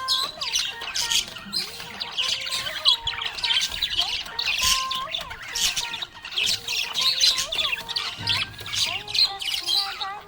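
Budgie chirping and warbling, a rapid, continuous stream of chirps mixed with short gliding whistled notes.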